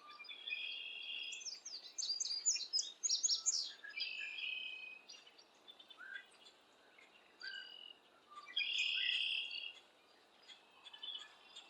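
Several wild birds calling and chirping. A buzzy call comes three times, at the start, about four seconds in and about nine seconds in, with a burst of quick high chirps between two and four seconds in and scattered single notes in between.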